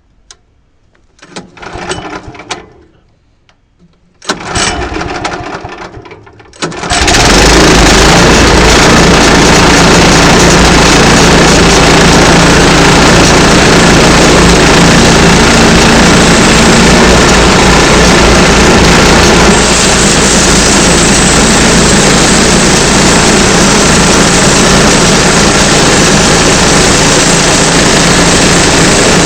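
Small gasoline engine of a portable sawmill: two short bursts, then about seven seconds in it starts and runs steadily at high speed, loud, as a cut is made through the log.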